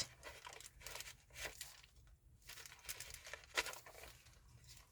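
Faint, irregular rustling and crinkling of paper as the pages and inserts of a handmade junk journal are handled and turned.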